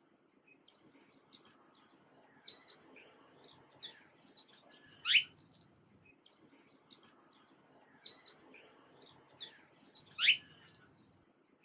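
Small birds chirping and twittering, with a loud sweeping chirp twice, about five seconds apart. The same run of calls comes round again each time, like a looped recording.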